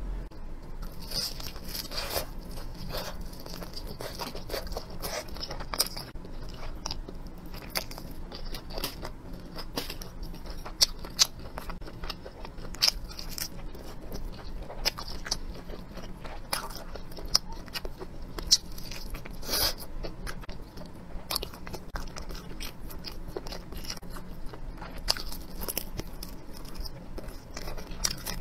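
A person chewing and biting into roast duck close to the microphone: irregular wet crunches and sharp mouth clicks throughout.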